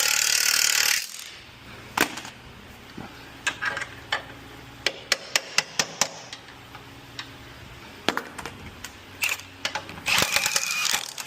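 A power tool runs in two short bursts on the control arm bolts, one at the start and one near the end. Between them come scattered sharp metal clinks and taps of tools and parts.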